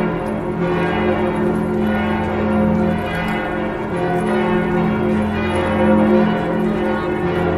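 Church bells pealing, many strikes overlapping and ringing on at an even level.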